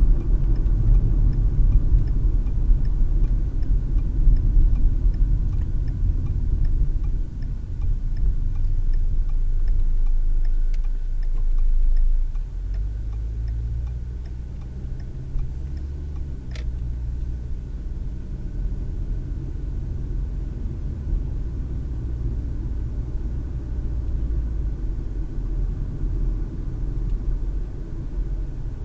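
Car interior road noise while driving: a steady low tyre and engine rumble that eases about twelve seconds in as the car slows, leaving a quieter even hum. Faint regular ticking at first and a single click midway.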